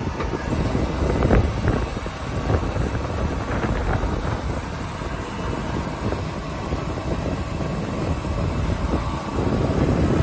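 Hamech TKS-400 sliding table saw, with its 5.5 kW main motor, running steadily with the blade spinning as the machine is worked.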